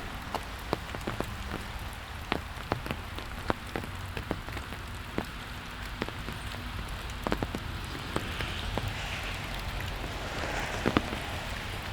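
Steady rain falling, with large single drops hitting close by as irregular sharp taps, several a second at times, over a low rumble.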